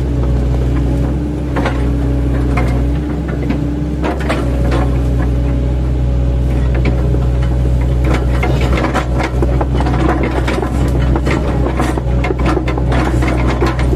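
Eight-ton mini excavator's diesel engine running steadily under load, with a run of sharp cracks and knocks, thickest in the second half, from its bucket with chipping blades chopping oil palm trunks.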